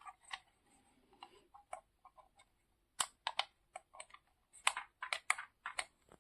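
Scattered light clicks and taps at an irregular pace, with a few in quick succession about three seconds in and again near the end.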